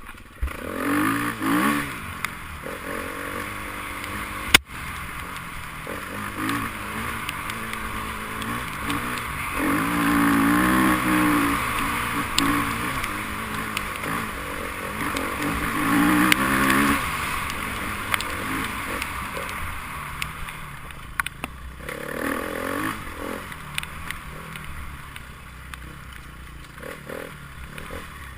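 Enduro motorcycle engines running and revving, the pitch rising and falling as bikes go by, loudest about ten to twelve seconds in and again around sixteen seconds. A single sharp click about four and a half seconds in.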